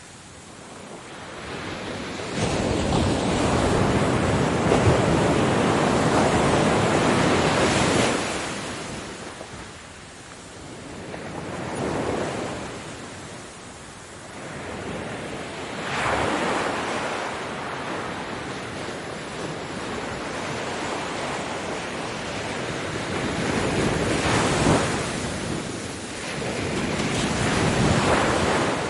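Ocean waves breaking on a beach: surf rising and falling in repeated surges, the biggest a long wash a couple of seconds in, with smaller waves every few seconds after it. Wind noise on the microphone runs under the surf.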